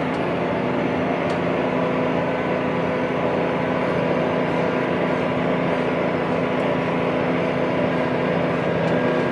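Large farm tractor's diesel engine running steadily, a constant drone with no change in speed.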